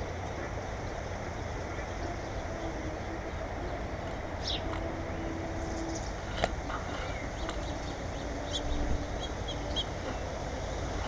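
A few short, high chirps from small birds at a feeder over a steady low rumble, with a single sharp click about six and a half seconds in.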